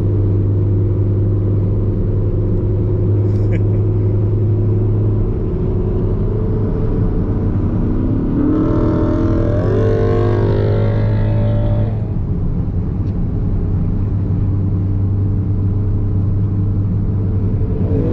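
Steady car engine and road drone heard from inside a moving car, with an engine revving up, its pitch rising for a few seconds around the middle.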